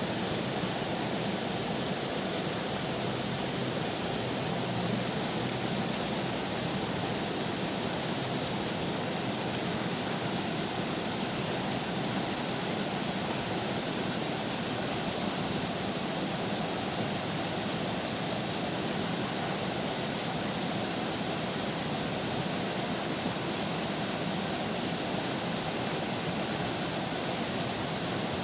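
River water flowing steadily, a constant even rush with no changes.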